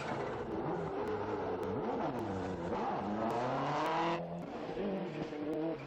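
Rally car engine revving hard at full throttle through several gear changes, its pitch climbing repeatedly. The loudest climb cuts off abruptly about four seconds in, followed by another rising rev.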